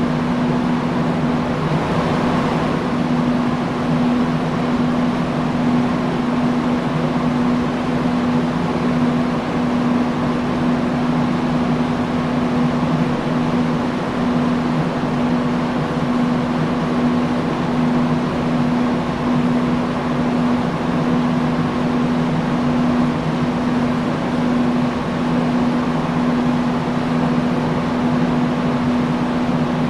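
Industrial fan running steadily: an even rush of moving air over a constant low motor hum.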